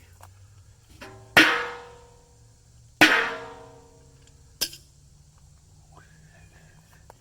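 Thin metal being struck: two loud clangs about a second and a half apart, each ringing and fading out, then a lighter knock, from the thin steel fire pit and pipe fittings of a homemade forge being knocked into place.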